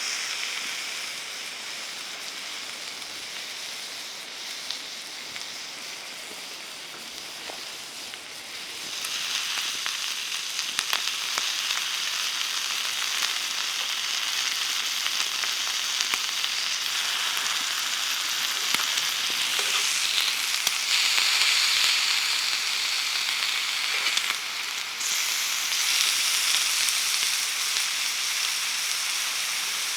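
Meat sizzling on a grill over a campfire: a steady frying hiss with small crackles, growing louder about nine seconds in.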